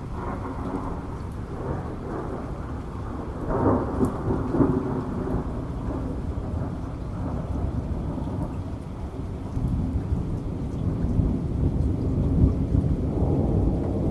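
Heavy rain with thunder rumbling. The thunder swells about four seconds in and builds again in the last few seconds.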